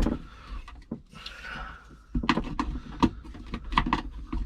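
Knocks, clicks and scraping of plastic parts being handled as a hose is tugged and worked loose from a Thetford C200 cassette toilet's flush pump. A sharp knock comes at the start, then a run of short clicks and knocks from about halfway.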